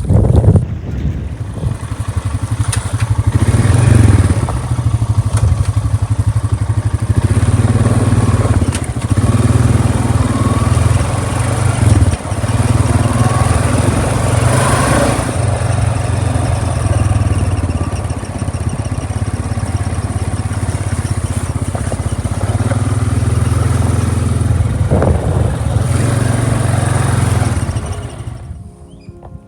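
A small engine running steadily close by, then cutting out near the end.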